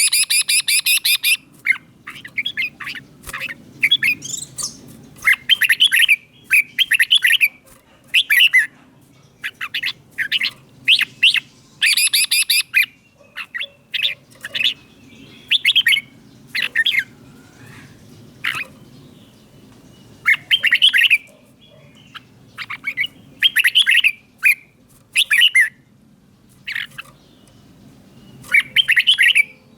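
Red-whiskered bulbul singing: short, bright whistled phrases repeated every second or two, with a few harsher, rasping notes near the start and about twelve seconds in.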